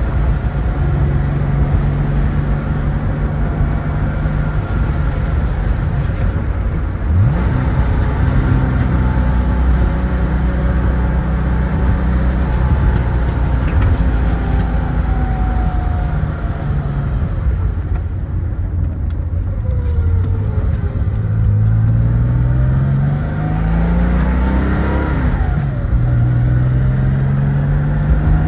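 1975 Porsche 911S's air-cooled flat-six engine under way, running steadily at first and easing off around the middle. Then the revs climb and drop sharply at a gear change about three-quarters of the way through.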